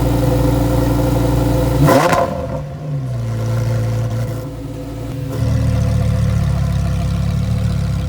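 A car engine idling, blipped once about two seconds in: the pitch rises sharply and falls back, then it settles to idle again.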